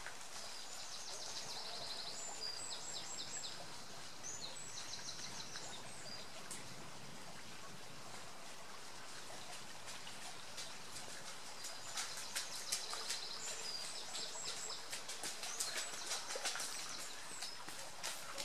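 A songbird sings short, high trilled phrases twice, over a steady outdoor hiss. In the second half the footfalls of runners going past on the road come in.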